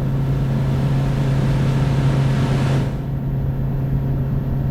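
Motorboat engine running steadily under way, with a rushing hiss that swells and cuts off about three seconds in.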